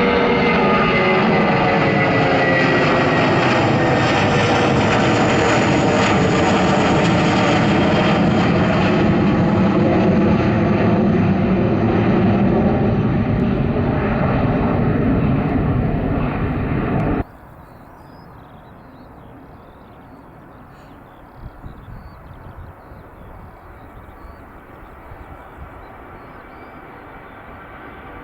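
Jet airliner passing by, its engine tones sliding down in pitch as it goes past. About two-thirds of the way through the sound cuts off abruptly, leaving a much quieter background.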